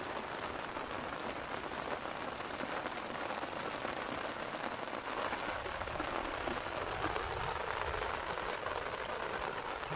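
Steady rain falling on the shallow water of a flooded rice paddy.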